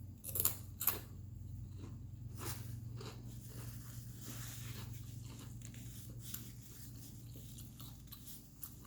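Close-up chewing and crunching of food, with sharp crunchy bites about half a second and a second in, then softer chewing clicks. A low steady hum sits underneath.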